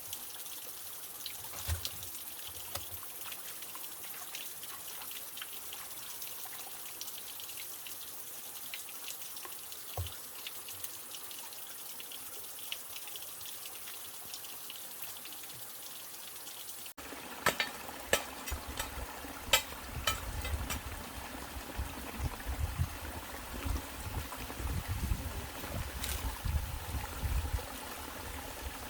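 Water running and trickling. About two-thirds of the way through the sound changes abruptly to a fuller, rumbling wash with scattered clicks.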